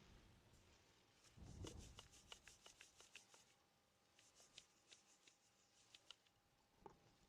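Faint kitchen handling sounds: a soft thump, then runs of quick, crisp clicks and rustling, and another soft thump near the end.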